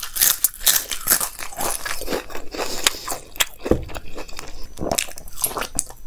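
A person chewing crisp papad with dal and rice in close-up: irregular, rapid crunching and crackling bites.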